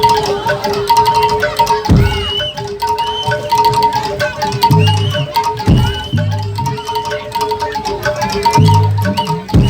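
Jaranan dor ensemble music: gamelan percussion with steady ringing metal notes, short high melodic phrases, and three deep bass-drum strokes a few seconds apart.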